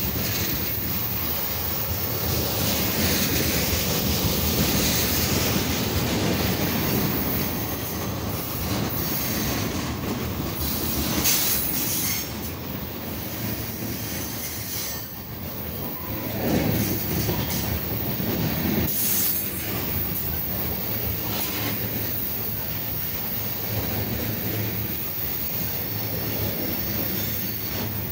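Freight train's tank cars and covered hopper cars rolling past at slow speed, close by: a steady rumble and clatter of steel wheels on the rails.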